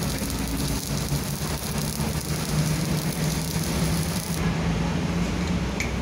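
Stick-welding arc from a Daiden 160A transformer welder set to 80 amps, burning a 2.6 mm electrode: a steady crackling sizzle over a low hum. The arc cuts off suddenly about four and a half seconds in as the weld ends.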